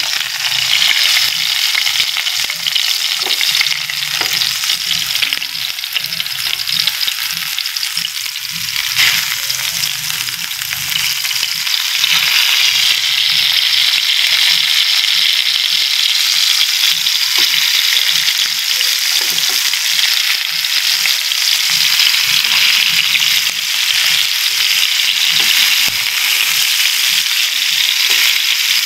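Minced-meat-stuffed tomatoes frying in hot oil in a pan: a steady sizzle with fine crackling, which grows louder about twelve seconds in.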